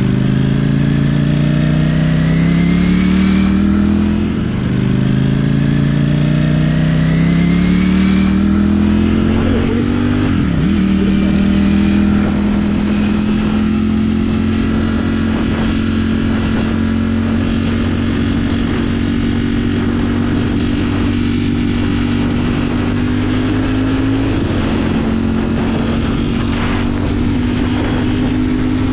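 Ducati motorcycle engine accelerating through the gears: its pitch climbs, drops at upshifts about four and ten seconds in, then holds steady while cruising, with a small rise near the end. Wind rushes over the microphone throughout.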